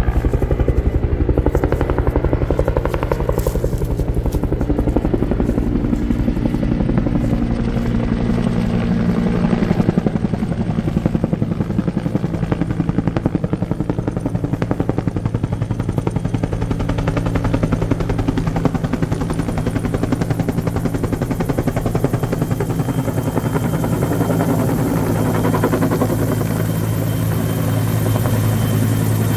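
Firefighting helicopter's rotor and turbine running steadily, with the rapid beat of the blades throughout; the low hum swells slightly near the end.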